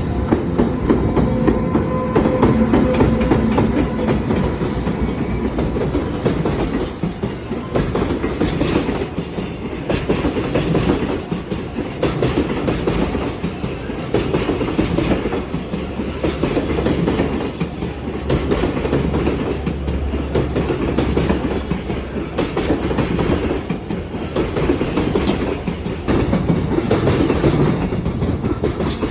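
A train running past close by, its wheels clattering over the rail joints in a steady run of clicks.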